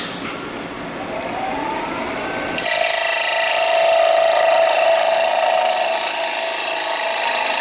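Wood lathe switched on and spinning up with a rising whine, then about two and a half seconds in a carbide hollowing tool bites into the spinning wooden bowl, giving a loud, steady cutting noise as the wall is hollowed.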